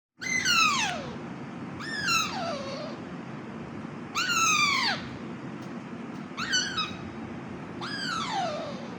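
Hand-fed young parrot giving five whining calls, each rising briefly then sliding down in pitch, over a steady low hum. These are the begging calls of a bird being hand-fed.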